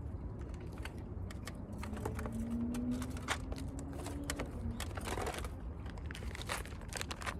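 Hands working small accessory-making materials: scattered light clicks and crinkling, with a steady low rumble underneath.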